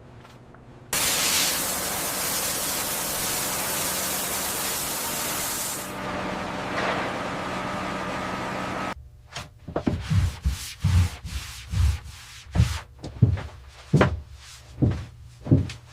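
A loud, steady hiss starts suddenly about a second in and cuts off abruptly at about nine seconds. It is followed by a run of about a dozen dull knocks, roughly two a second.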